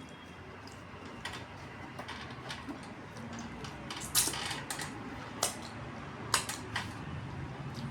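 Dishes clinking and tapping during a meal: a run of scattered sharp clicks, the loudest a little after four seconds in and again at about six and a half seconds.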